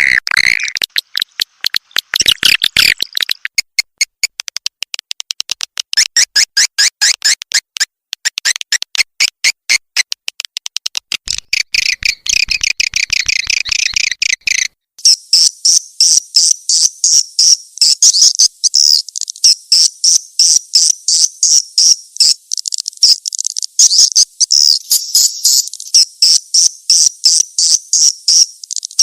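Swiftlet lure call: a recording of swiftlet twittering, played to attract swiftlets to a nest house. It runs as a fast, unbroken train of chattering clicks and chirps, then about halfway through breaks off and switches to a higher-pitched twitter.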